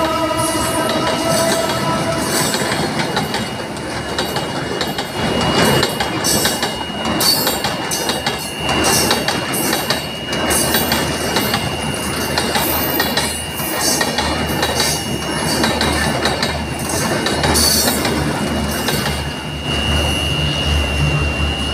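Passenger coaches of a Bangladesh Railway train rolling past over a level crossing, wheels clattering in irregular knocks over the rail joints, with a steady high-pitched tone throughout. A horn trails off about two seconds in.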